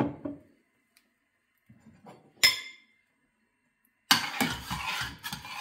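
Kitchenware clinking as it is handled and set down: a soft knock, then a sharper glassy clink with a brief ring. From about four seconds in, a spoon starts scraping and stirring in the pot of sauce.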